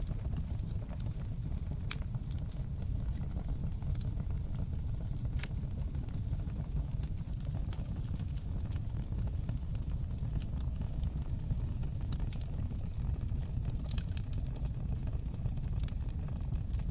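Wood fire burning in a fireplace: a steady low rumble of the flames with scattered sharp crackles and pops, a few coming close together near the end.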